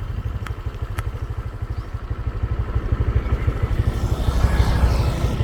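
Honda Click 125i scooter's single-cylinder engine running steadily while riding, heard as a fast low pulsing, with two faint clicks near the start. It grows a little louder about four seconds in.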